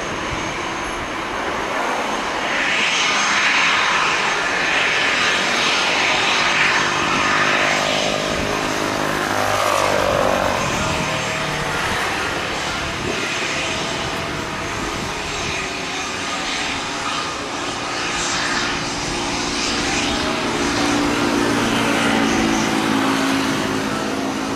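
Gulfstream G550 business jet's twin Rolls-Royce BR710 turbofans at takeoff power, a steady jet roar that dips in pitch about ten seconds in as the aircraft passes.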